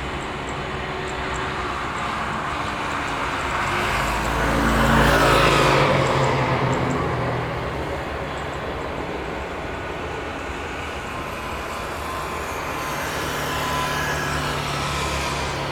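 A vehicle passing close by over a steady rumble of traffic and airport noise. It is loudest about five seconds in, its pitch dropping as it goes past, and swells again more gently near the end.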